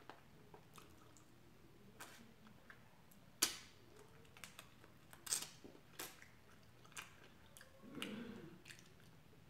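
A person eating lemon pepper chicken wings close to the microphone: soft chewing and biting with scattered sharp mouth clicks and smacks, the loudest about three and a half seconds in.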